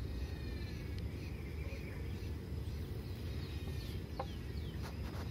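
Faint bird calls, short falling chirps, over a low steady outdoor rumble, with a few soft knocks near the end.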